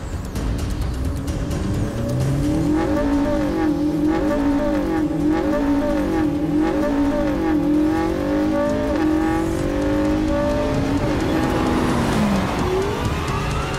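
McLaren P1's twin-turbo V8 revved up and down over and over while standing in neutral, each rev rising and falling in pitch. Near the end the pitch drops away, then a long steady rise in pitch sets in as the car pulls away.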